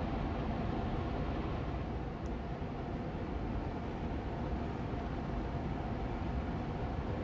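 Austin Air Allergy Machine air purifier fan running steadily on medium speed: an even rushing hum with a faint steady tone in it.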